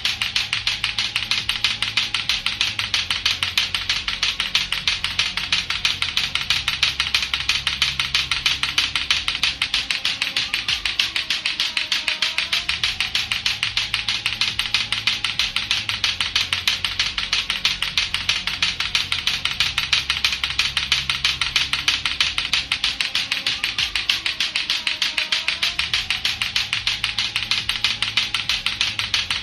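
Latto-latto clacker balls knocking together in a steady rapid rhythm, about four or five clacks a second, over a looping low background music track.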